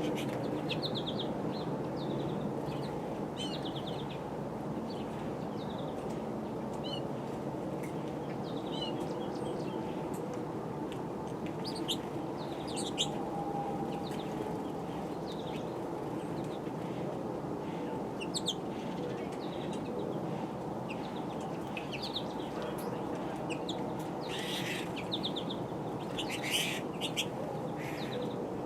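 Small birds chirping, with many short, scattered high calls over a steady low background rumble.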